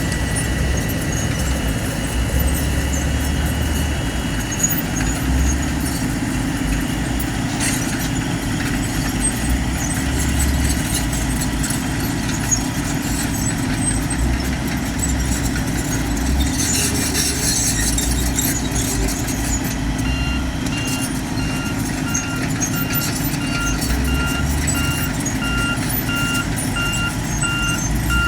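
Heavy diesel engine of construction machinery running steadily with a low, pulsing rumble. About two-thirds of the way through, a reversing alarm starts beeping about twice a second.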